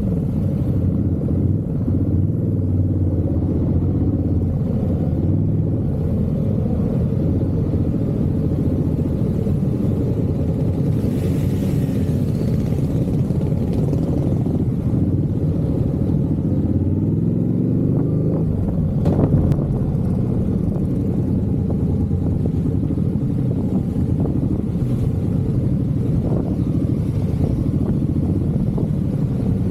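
Motorcycle engine running at riding speed, its pitch rising and falling with the throttle and gear changes. There is a brief louder knock about nineteen seconds in.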